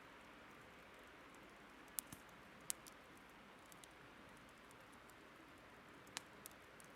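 Burning wood crackling faintly, with a few sharp pops: two about two to three seconds in and one near the end. Under it runs a steady, soft rushing of river water.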